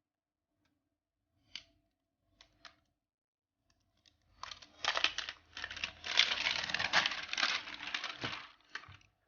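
A few light clicks, then about four and a half seconds of continuous crinkling and tearing as the plastic wrapping on an iPhone 7 Plus retail box is ripped off.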